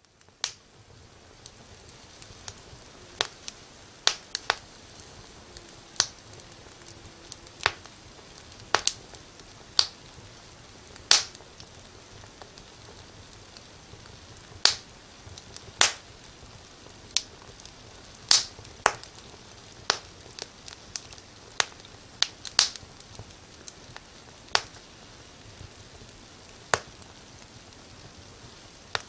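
Fire burning in a fireplace: a soft steady hiss with sharp, irregular crackles and pops, a few of them loud, coming every second or two.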